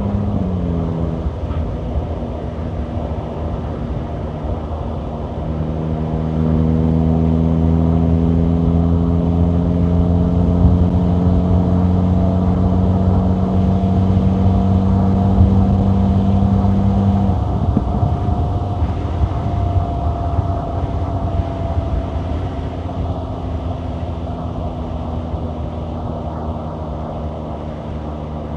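Volkswagen Golf GTI's 2.0-litre turbocharged four-cylinder engine running while driving, with road noise. Its pitch drops about a second in; from about six seconds it pulls louder with the pitch slowly rising, then eases off around seventeen seconds with the pitch slowly falling.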